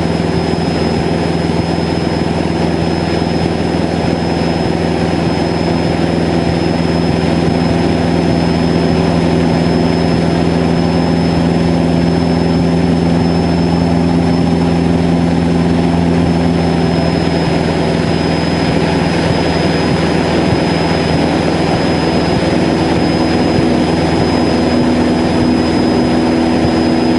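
Cessna 152's four-cylinder Lycoming O-235 engine and propeller in flight, a steady unbroken drone.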